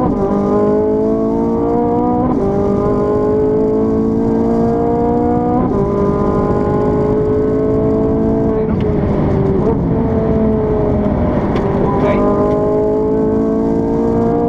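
Ferrari 458 Italia's 4.5-litre V8 at full throttle, heard from inside the cabin, climbing through the gears with quick upshifts at about two and six seconds in. From about nine seconds the revs fall away as it slows and shifts down, then it pulls hard again near the end.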